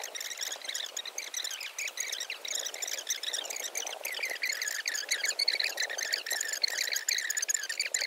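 Many small birds chirping and twittering at once: a dense, steady chorus of short high chirps with no pauses.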